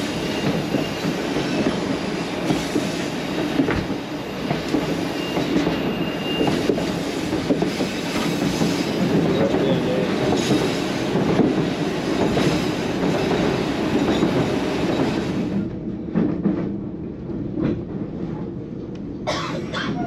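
White Pass & Yukon Route narrow-gauge train running along the track, heard from a passenger coach: a steady rumble and clatter of wheels on rails. Near the end the sound turns duller and a little quieter, then a short burst of sharper clatter.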